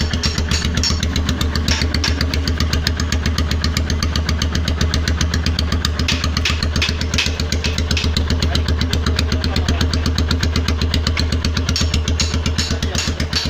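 Royal Enfield Himalayan 411's single-cylinder engine idling with a fast, even pulse, broken now and then by sharper, louder cracks. This is the misfire the owner calls a very loud sound.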